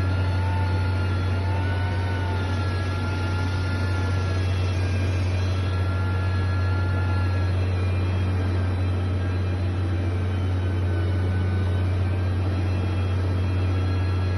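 Heavy construction machine's engine running steadily: a deep, even drone with a faint wavering whine above it.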